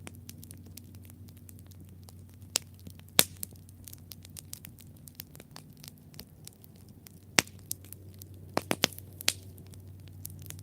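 Wood campfire crackling, with irregular sharp pops and snaps from the burning logs, including a quick run of several pops near the end. A low steady hum runs underneath.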